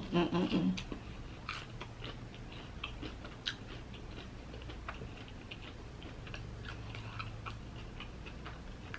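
Close-up chewing of a crispy breaded fried shrimp: scattered small crunches and wet mouth clicks, after a short hummed voice at the start.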